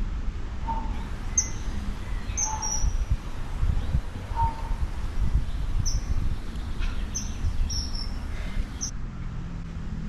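Birds calling: a short whistled note repeated about every two seconds and several quick high chirps that drop in pitch, over a steady low rumble.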